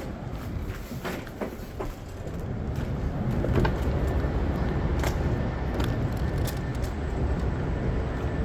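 PATH train running, its low rumble swelling about three seconds in, with scattered sharp clicks and clanks over it.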